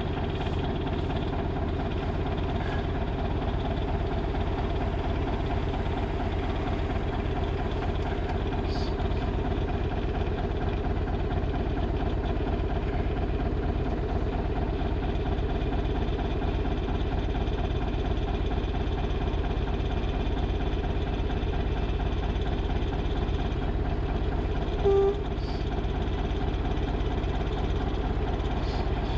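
A 1963 Volvo LM225 wheel loader's engine runs steadily as heard from the cab. A short, loud beep cuts in once near the end.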